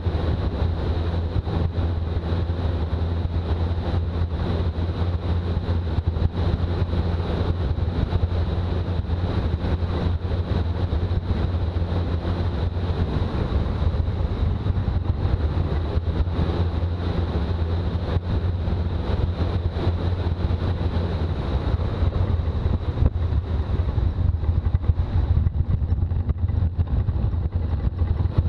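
Toyota BJ40 Land Cruiser's diesel engine running steadily under way, with road and wind noise. The engine note dips and shifts about halfway through and changes again a few seconds later.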